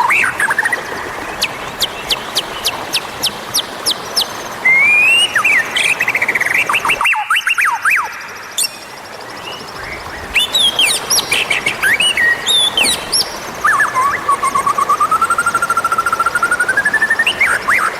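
White-rumped shama (murai batu) singing a varied song: rapid sharp ticks, rising and falling whistles, and a long fast-warbled phrase that climbs in pitch near the end, with a brief lull about halfway through.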